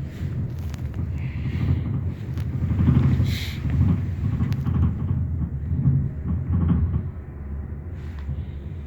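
Low blizzard wind rumbling in gusts that swell and ease, with a few light knocks and rattles.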